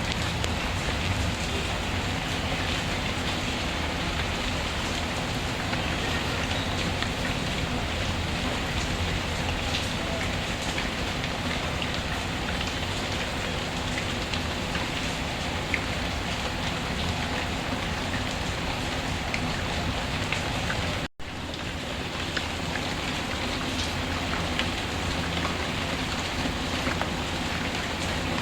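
Steady rainfall mixed with a crackling wood fire: a continuous even hiss with scattered small pops and clicks. The sound cuts out for an instant about three-quarters of the way through, then resumes.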